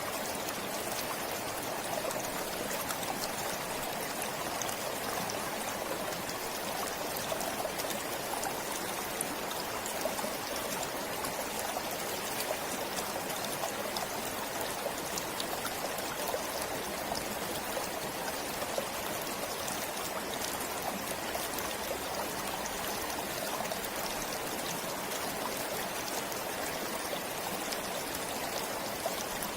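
Stream flowing steadily, a constant, unchanging rush of water with fine trickling and splashing.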